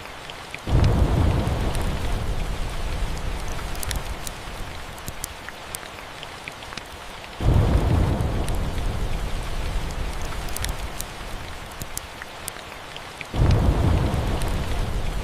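Steady rain with thunder rumbling three times, each rumble starting suddenly and loudly and fading out over several seconds, over scattered small sharp clicks.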